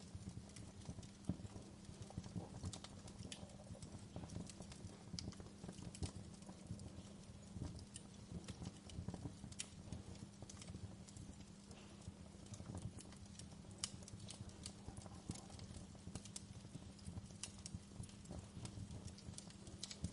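Wood fire crackling in a fireplace: a steady low rumble with irregular sharp pops and snaps scattered through it.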